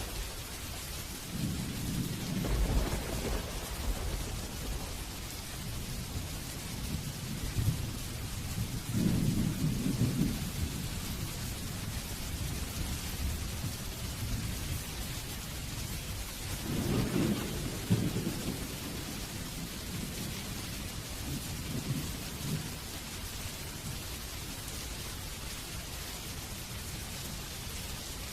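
Steady heavy rain, with rolls of low thunder rumbling in and fading three times; the loudest roll comes a little past halfway, and the rain alone carries on near the end.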